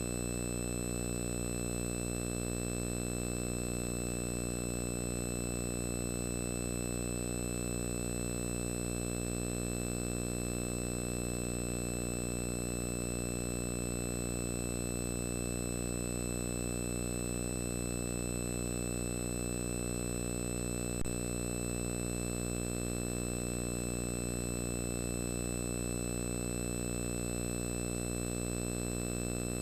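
A steady electrical hum with many overtones that holds unchanged throughout, with a single faint click about 21 seconds in.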